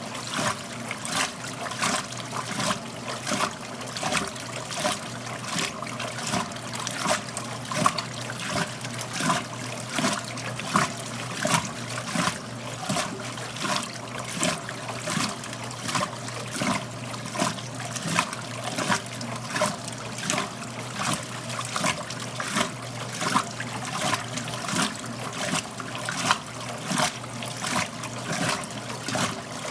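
1969 Westinghouse LAJ 535A3 washing machine washing a load in water: a splash or slosh about every 0.7 s over a steady motor hum.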